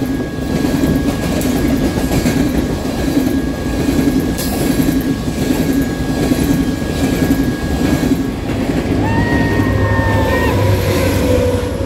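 Empty coal hopper cars rolling past at close range, their wheels clattering rhythmically over the rail joints. About nine seconds in, the rear pusher locomotive, an EMD SD70MAC diesel, comes up and adds a low engine drone and a whine.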